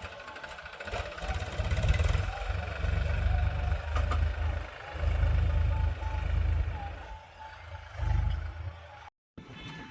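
Farm machinery engine running, with a heavy uneven low rumble. The sound cuts out abruptly for a moment near the end.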